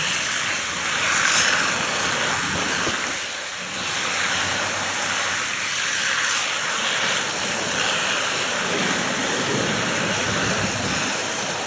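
Water streaming down off the roof and splashing, a steady rushing noise: firefighting water still draining from the burnt building.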